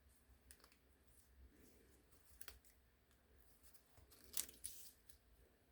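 Near silence with faint paper handling: a few small clicks and soft rustles, and one brief louder rustle about four and a half seconds in, as a small die-cut paper piece is worked into place.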